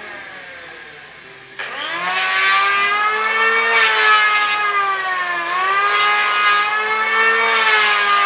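An electric wood-shaving power tool: its motor winds down, is switched on again about a second and a half in and runs up to speed, then cuts wood in four passes, each with a hiss of shaving and a slight drop in motor pitch under load.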